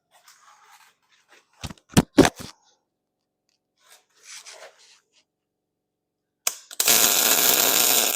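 A few sharp metal clanks, then a loud, steady electric welding crackle for just over a second that cuts off sharply: a loose bolt being re-welded to the steel base plate.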